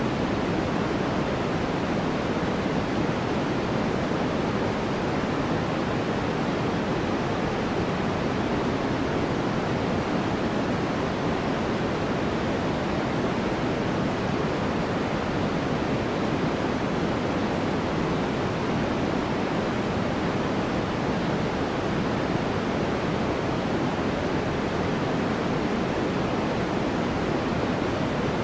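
Steady, unbroken sleep noise of the kind sold as white noise, heavier in the low and middle range than a bright hiss, so it sounds like a soft, even rush. It never changes in level.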